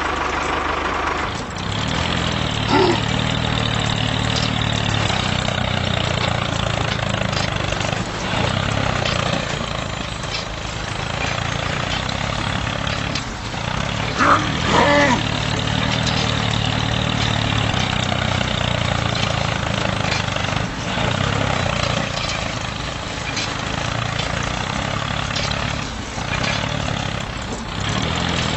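Homemade mini tractor's motor running steadily under load, with two brief high sliding sounds, one a few seconds in and one about halfway through.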